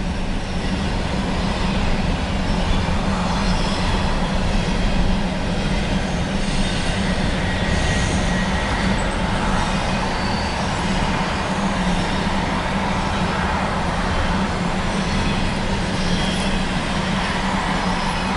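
Norfolk Southern intermodal freight train rolling past: a steady, loud rumble of steel wheels on rail that neither rises nor falls.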